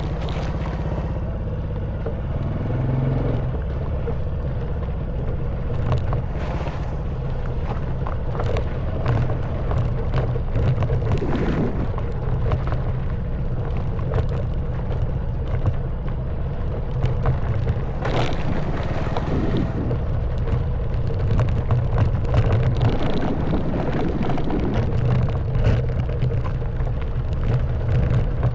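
Honda Wave 110cc single-cylinder four-stroke engine running steadily under way, with frequent knocks and rattles from the bike jolting over a rough dirt track. A few brief bursts of hiss come near the start, around a quarter of the way in and about two-thirds of the way through.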